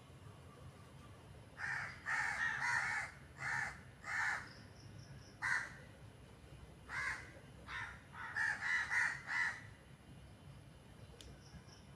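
Crows cawing: a run of about a dozen short, harsh caws in irregular bursts, starting about two seconds in and stopping near the end.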